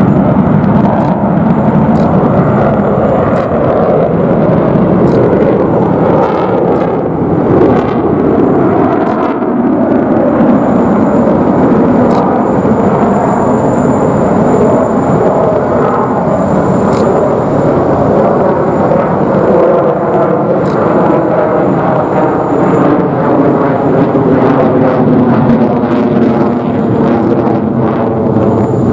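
Boeing F-15QA fighter's twin jet engines, loud and continuous during a display flight, the tone rippling and wavering as the aircraft moves past.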